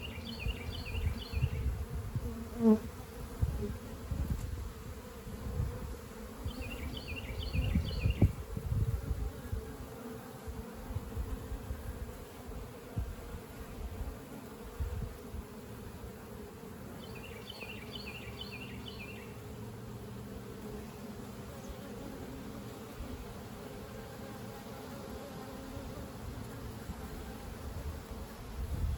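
Honey bees buzzing around an opened swarm trap in a steady hum. A small bird's short trilled phrase is heard three times, and low rumbling on the microphone comes and goes during the first several seconds.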